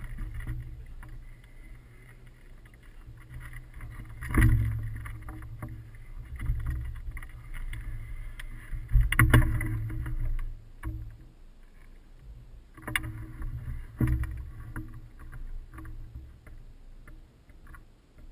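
Wind buffeting the microphone in flight on a hang glider: an uneven low rumble that surges in sudden gusts about four, nine, thirteen and fourteen seconds in.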